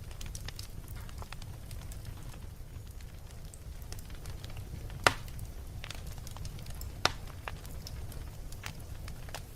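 Wood fire burning in a fireplace, a steady low rumble with scattered crackles and two louder pops, about five and seven seconds in.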